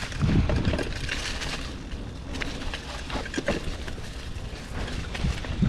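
Mountain bike being ridden along a dirt trail, with scattered clicks and rattles from the bike over rough ground and a steady low rumble of wind on the microphone.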